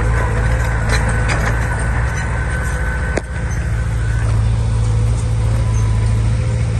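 Diesel engine of a Komatsu D20P crawler bulldozer running steadily at work, with a faint whine over it for the first four seconds and one sharp click about three seconds in.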